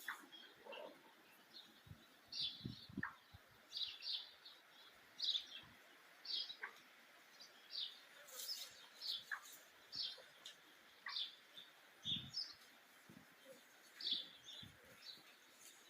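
Small birds chirping: short, high chirps repeated about once a second or faster, over faint outdoor background noise.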